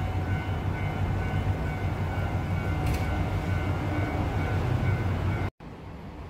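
Train passing on an elevated line: a steady low rumble with a faint whine over it. It cuts off abruptly about five and a half seconds in and comes back quieter.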